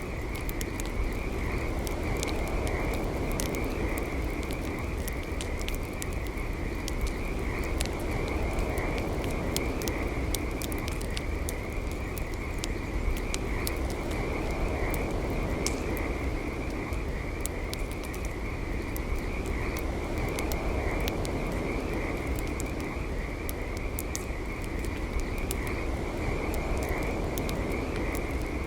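Campfire crackling with frequent sharp pops, over a steady high-pitched trilling chorus of frogs.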